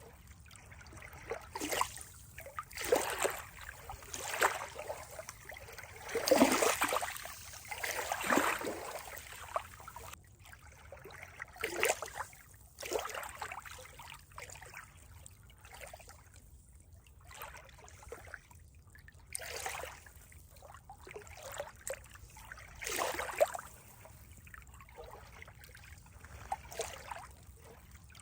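A small stream trickling and splashing in uneven bursts, loudest about six to nine seconds in.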